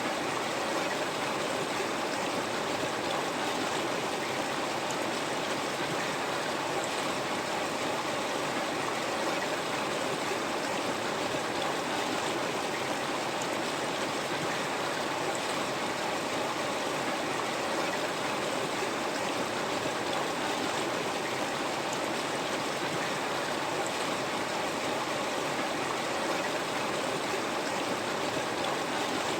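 River water flowing steadily over rocks, an even rushing and babbling with no change or break.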